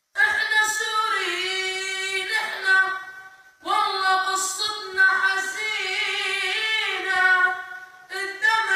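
A single high voice singing an Arabic song unaccompanied, in long held notes that glide and ornament. It sings two phrases with a short breath pause at about a third of the way through.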